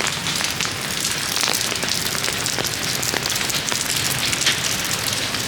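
Steady rain falling, a dense patter of drops hitting the surfaces close by.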